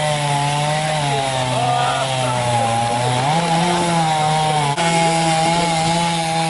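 A chainsaw runs and cuts wood, its engine pitch sagging about a second in and rising again past the three-second mark, with a brief dip near the end.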